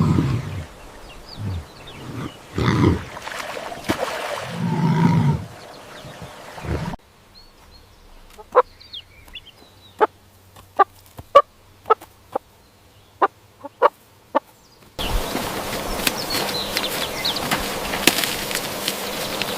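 A run of separate animal sound clips: first several loud low calls in bursts, then about a dozen short sharp clucks spaced irregularly, then, cutting in suddenly about fifteen seconds in, a dense chatter of bird calls over a noisy outdoor background.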